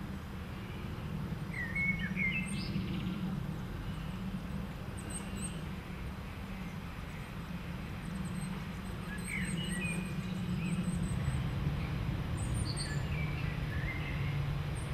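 Wild birds calling in woodland: short chirping phrases about two seconds in, again around ten and thirteen seconds, with thin high calls scattered between, over a steady low background rumble.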